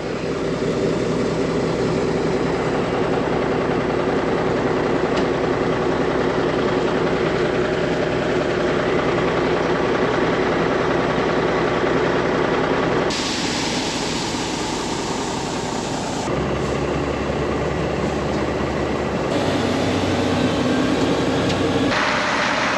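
Steady engine and machinery running with a low, even hum. The sound changes abruptly three or four times in the second half.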